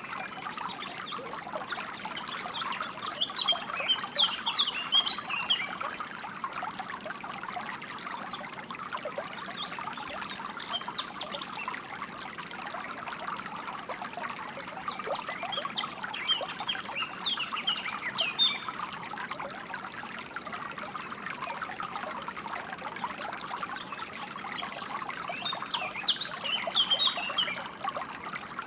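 Water trickling steadily, with four short bursts of songbird chirping.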